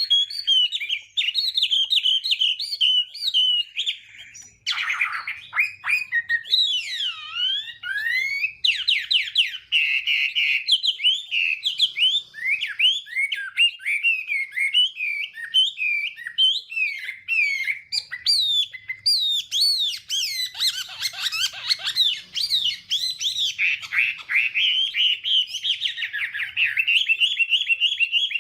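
Chinese hwamei (melodious laughingthrush) singing its fighting song: a long, varied run of rapid, swooping whistled phrases, with a few slower gliding notes about six seconds in.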